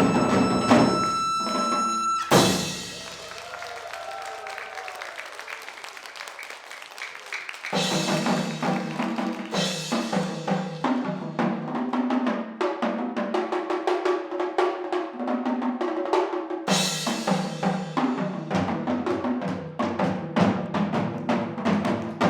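Live ensemble music of drums and percussion. A loud passage with held tones breaks off sharply about two seconds in. A quieter stretch with gliding tones follows, then rapid drumming with pitched notes comes back in about eight seconds in.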